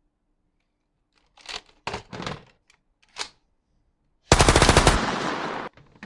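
A few short clicks and knocks of a toy gun being handled. Then, a little past the middle, a loud burst of rapid machine-gun fire sound from the toy, about a second and a half long, fading out at the end.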